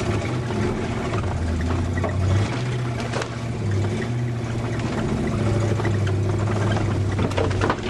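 A 1972 Cadillac's V8 engine running as the car is driven off-road, heard from inside the cabin. The drone's pitch steps up and down several times as the throttle changes, with short knocks and rattles from the body over rough ground.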